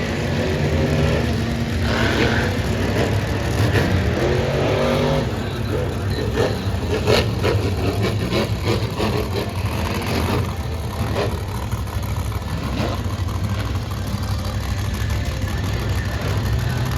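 Monster truck engines, blown alcohol-burning motors, running and revving loudly. A series of sharp cracks comes near the middle.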